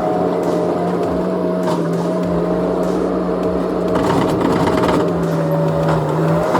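Skid steer engine running steadily under load, with a constant hum and a higher steady whine.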